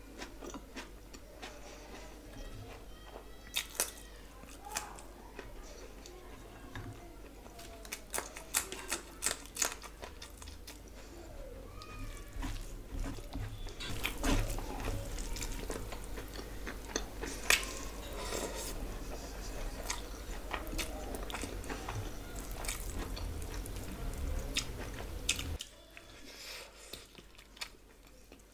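Close-miked eating: wet chewing and mouth sounds with scattered sharp crunches and smacks as rice and curry are mixed and eaten by hand. A low background hum stops abruptly near the end.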